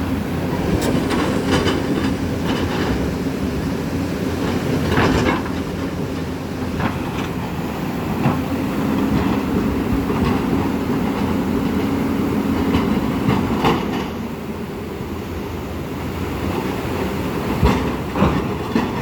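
Flooding river: a steady, loud rushing rumble with scattered sharp knocks.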